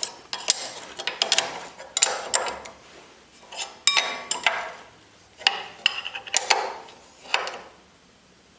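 Steel brake parts and hand tools knocking and clinking together as a caliper bracket and caliper are fitted: a series of sharp, ringing metal clinks at irregular intervals, dying away near the end.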